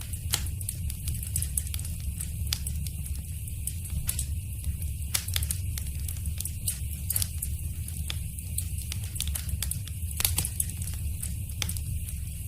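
Wood fire in a fireplace crackling: irregular sharp pops and snaps over a steady low rumble, with the loudest pop about ten seconds in.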